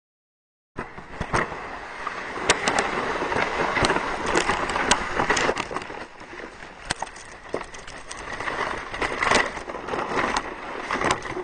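Saucer sled sliding over snow: a steady scraping hiss broken by many sharp knocks and crunches as it bumps along, starting abruptly just under a second in and easing off about halfway.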